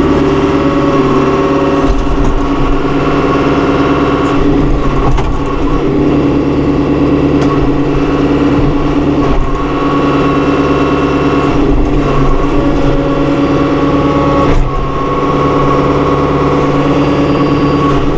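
John Deere 5100E tractor's diesel engine running at raised throttle while the front loader is cycled. Its steady note shifts briefly several times as the loader hydraulics take load.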